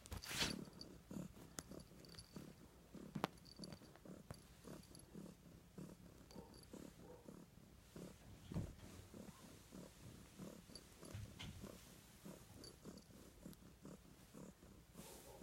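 Domestic cat purring faintly and steadily, close to the microphone. A brief rustle near the start and a sharp click about three seconds in stand out above it.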